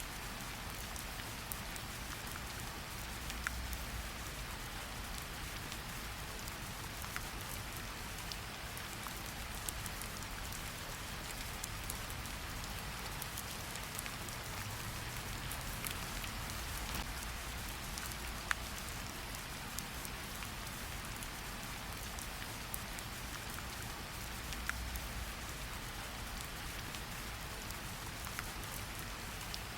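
Fireplace-and-rain ambience: a steady hiss of rain with scattered sharp crackles and pops of a wood fire.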